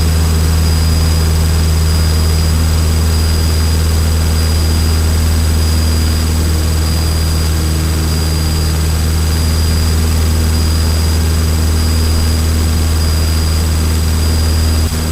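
Single-engine Cessna trainer's piston engine and propeller running steadily in cruise, a constant loud drone with a deep hum and a faint high whine over it.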